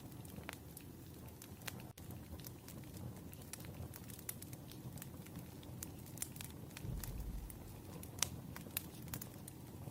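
Paper and stationery being handled on a desk while a letter is written and decorated: scattered small clicks and paper crinkling, with a soft low thud about seven seconds in.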